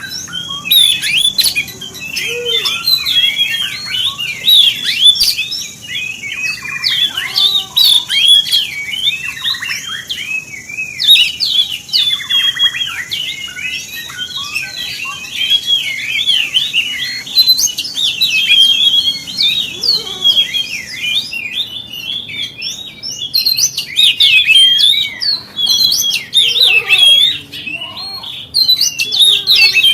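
Oriental magpie-robin (kacer) singing a continuous, fast stream of varied whistles and chattering notes. This is the kind of song played as a 'pancingan' to provoke other kacer into singing.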